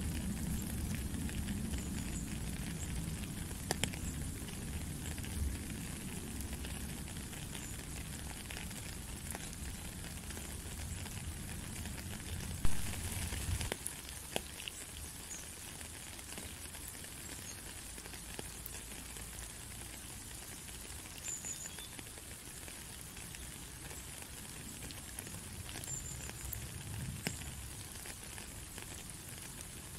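Steady hiss of rain falling on a puddle and a wet gravel road, with scattered small drop ticks. A low rumble under it stops about halfway, just after a single sharp knock.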